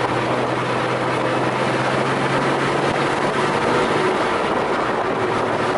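Porsche 914 on the move: steady engine and road noise, with a low engine hum that fades out about three to four seconds in.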